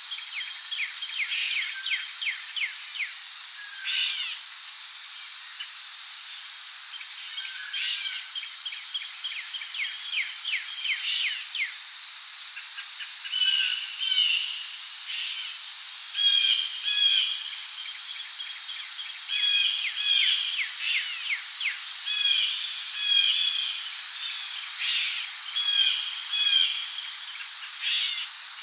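Tropical rainforest ambience: crickets keep up a steady high drone while birds call over it. There are rapid trills, short paired chirps that repeat many times in the second half, and sharp single calls every few seconds.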